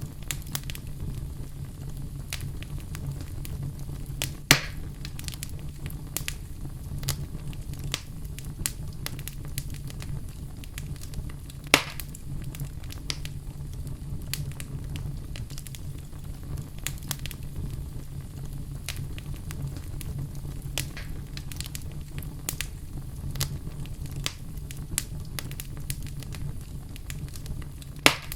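Wood fire crackling steadily over a low rumble, with three loud sharp pops: about four and a half seconds in, near the middle, and near the end.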